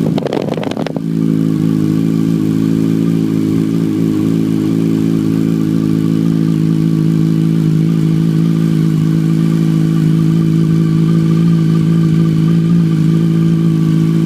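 2006 Yamaha R1's inline-four engine idling steadily through aftermarket Scorpion dual chrome exhaust pipes, still cold and warming up after a cold start. A brief noisy clatter sounds in the first second.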